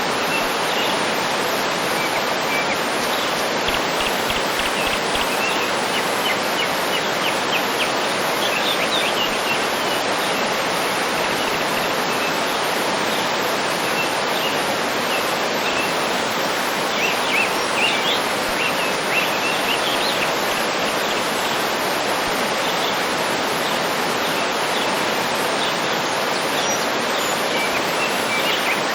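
Waterfall running with a steady rush, and small birds chirping and trilling over it on and off, busiest at two stretches.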